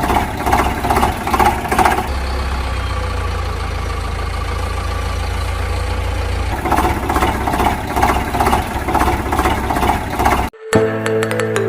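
Tractor engine running with a pulsing chug a few times a second, easing into a steady hum for a few seconds, then chugging again. It cuts off abruptly near the end and music starts.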